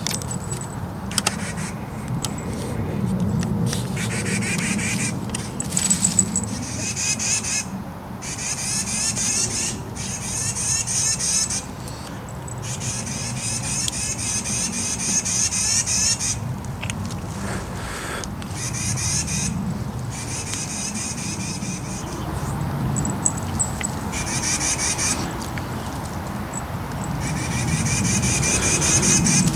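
Wild birds calling over and over in rapid, high chattering spells, each lasting one to four seconds, over a steady low rumble.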